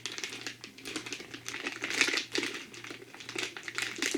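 Plastic snack packet being opened and handled, crinkling in quick, irregular crackles.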